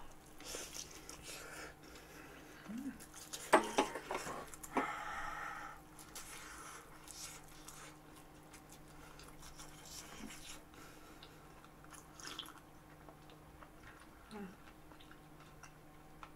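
A person chewing and biting soft French toast, with a few sharp clicks about three and a half seconds in and scattered small ticks.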